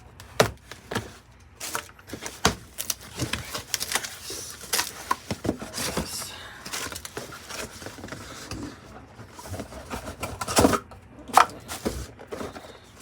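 A cardboard box and its packaging being handled and opened: irregular clicks, taps, crinkles and rustles, with a few louder knocks near the end.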